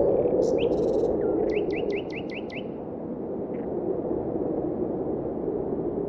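Bird chirps in the first three seconds, including a quick run of about six rising notes, over a steady low rushing noise that eases off slightly about two seconds in.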